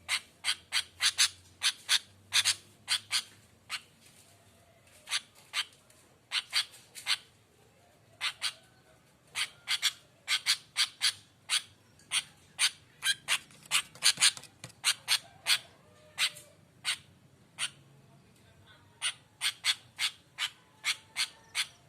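Sooty-headed bulbul (kutilang) giving short, sharp call notes in irregular bursts, several a second, with short pauses between bursts.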